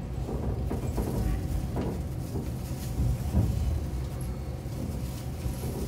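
Sightseeing diesel railcar running along the line: a steady low rumble with light irregular knocks and rattles.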